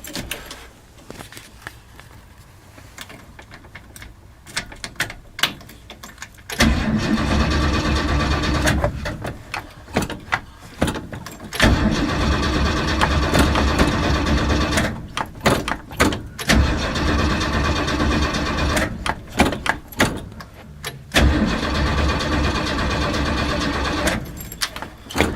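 A 1978 Ford Bronco's V8 being cranked over by its starter in four long attempts, starting about a quarter of the way in, with short pauses between them. It does not catch: a cold start after the truck has sat for a couple of months. Light clicks come before the first crank.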